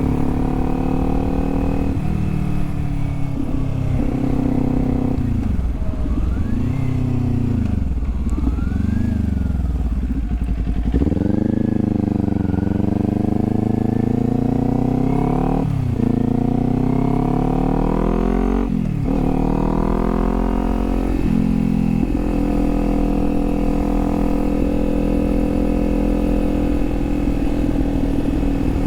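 Kawasaki Z400's parallel-twin engine under way. It slows and pulls away, then climbs in pitch through two upshifts, with a sharp drop at each shift, and settles into a steady cruise near the end.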